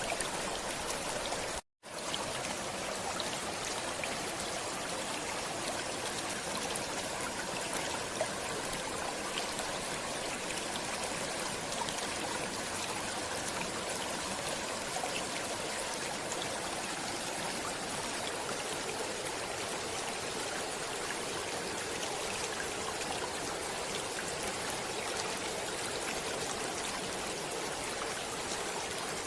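Stream water flowing steadily, an even unbroken rush with no pitch or rhythm, cut by a split-second dropout to silence about two seconds in.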